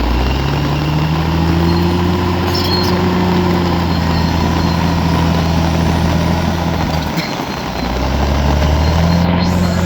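Bulldozer's diesel engine running hard and steadily. Its pitch rises about half a second in, eases off briefly around seven seconds in, then picks back up.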